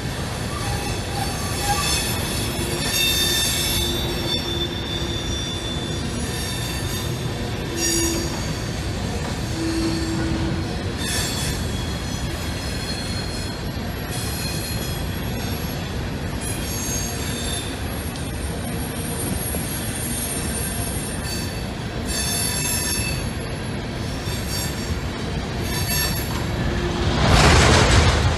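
Coal hopper cars of a CSX coal train rolling past with a steady rumble, the wheels squealing in high ringing tones that come and go. A loud rush of noise briefly swamps everything near the end.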